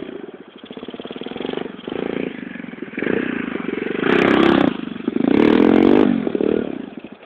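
125cc Torpro pit bike's single-cylinder four-stroke engine revving up and down in repeated throttle surges, with two loudest bursts about four and five and a half seconds in. The engine note falls away sharply near the end.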